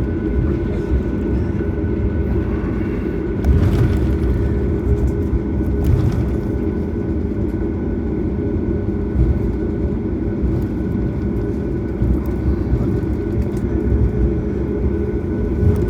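Steady cabin noise aboard a Boeing 737 MAX while it taxis: the low rumble of its CFM LEAP-1B engines at taxi power, with a steady whine and a few light knocks.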